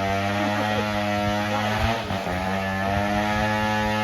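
An engine running at a steady speed, a constant mechanical drone.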